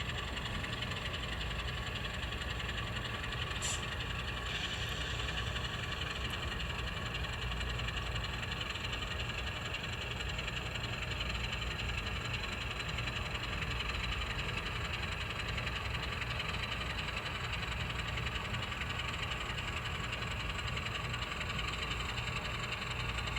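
N scale model locomotive running on the layout: a steady, even engine-like hum with no change in pitch. A faint click about four seconds in.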